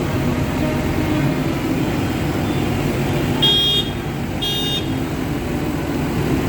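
Diesel tractor engines running steadily as tractors pass, with two short high-pitched horn toots about a second apart, midway through.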